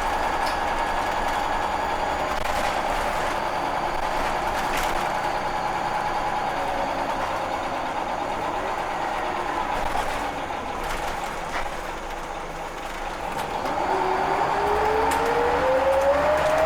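Interior of a Wright Solar Scania L94 single-deck bus underway: engine and drivetrain running steadily with body rattles, easing off about twelve seconds in, then pulling away with a whine rising steadily in pitch as it accelerates.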